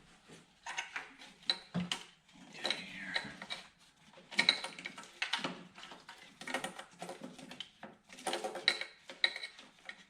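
Hand tools and metal engine parts clicking and clinking in irregular bursts during engine reassembly, including runs of quick fine clicks.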